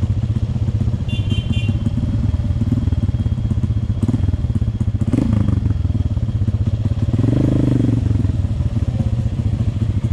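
Trail motorcycle engine running at low speed with a rapid, steady exhaust pulse, revving up briefly and dropping back about seven seconds in.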